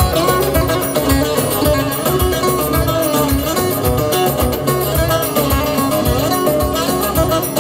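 Instrumental break in a Turkish folk song played live by a band: plucked strings carry the melody over a steady drum beat, with no singing.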